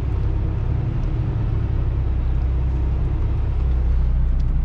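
Semi-truck diesel engine running at low speed, a steady low rumble heard inside the cab while the tractor-trailer reverses slowly.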